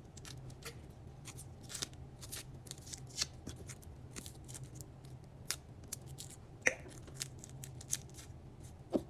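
Irregular crisp snips and clicks of garlic being handled and cut, a few a second, over a faint steady low hum.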